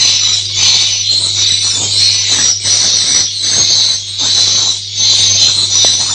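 Dense, high-pitched twittering of swiftlets, continuous with short dips every half second or so, over a steady low hum.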